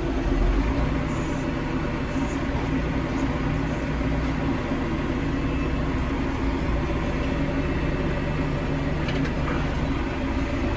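Tractor engine running steadily under way, a constant low drone with no change in revs.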